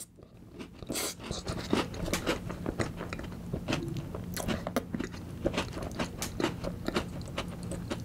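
Close-miked chewing of a mouthful of Oreo ice box cake softened with milk: many small wet mouth clicks and smacks with some soft crunches, irregular throughout.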